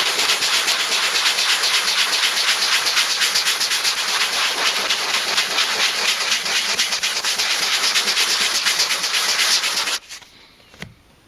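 80-grit sandpaper rubbed over chair leather in quick back-and-forth strokes, a steady scratchy scraping that smooths down rough, torn-up leather. It stops suddenly near the end.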